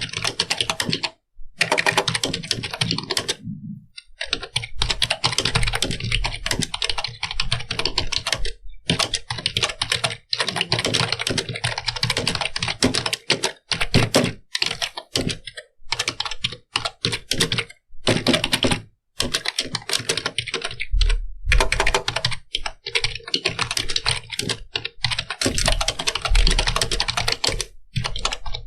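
Fast, continuous typing on a computer keyboard: rapid key clicks in quick succession, with brief pauses a handful of times.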